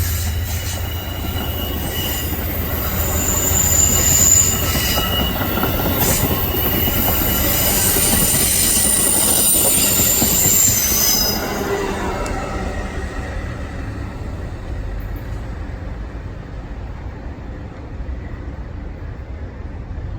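Amtrak passenger train rolling past, its wheels squealing on the rails in several high tones over a heavy rumble. About eleven seconds in the squeal stops and the train noise fades to a quieter, lower rumble.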